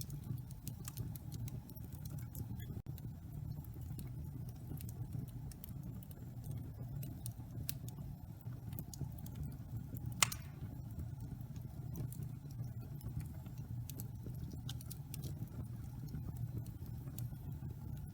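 Wood fire burning in a fireplace: a steady low rumble of flames with scattered small crackles and one sharper pop about ten seconds in.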